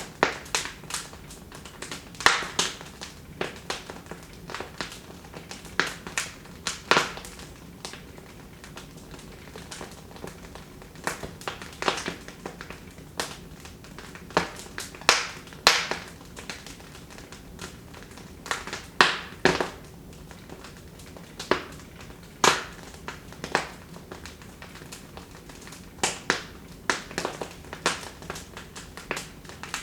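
Wood fire in a fireplace crackling, with irregular sharp pops and snaps, some in quick clusters, over a faint steady hiss.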